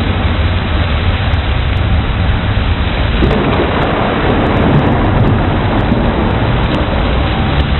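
Steady rain over a low, continuous thunder rumble that swells slightly midway.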